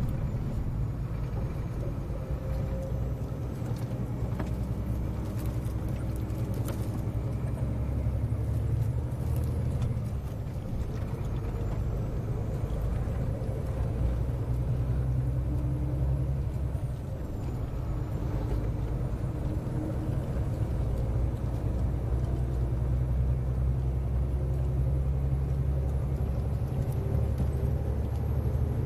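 Scania 143M 470 truck's 14-litre V8 diesel engine running steadily as a continuous low drone. Its level rises and dips slightly a few times. A faint high whistle wanders up and down in pitch above it.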